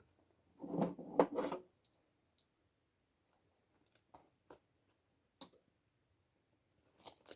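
A short clatter of knocks about a second in, then a few scattered sharp clicks and taps.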